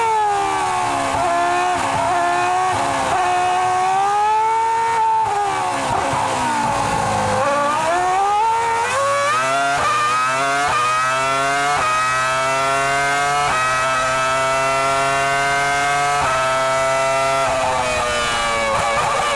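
Formula 1 V10 engine at high revs. Its pitch sags and dips around the middle of the clip as the car slows, then climbs again through a series of upshifts, each shift a brief drop in pitch.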